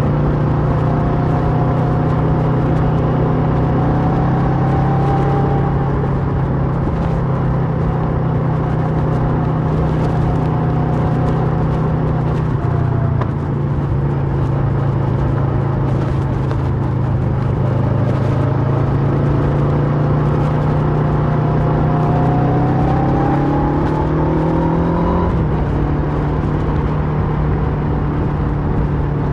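Kawasaki Versys 650's parallel-twin engine running through a Mivv slip-on exhaust while riding. The revs dip briefly about 13 seconds in, then climb steadily and drop sharply near 25 seconds.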